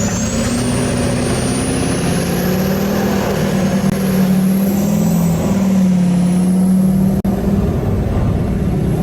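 Turbine engine running under load: a low steady drone with a thin high whine that climbs steadily over about five seconds as the engine spools up. The sound briefly cuts out for a moment near the end.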